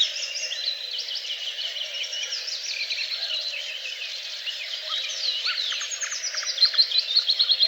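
Several songbirds singing together, a chorus of overlapping rapid chirps and trills, busiest near the end.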